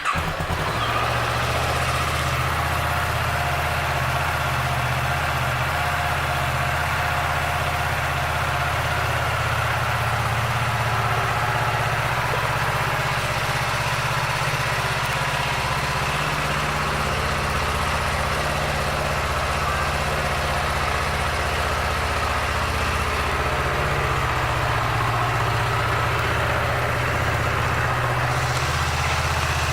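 Kawasaki Ninja 650R's parallel-twin engine idling steadily.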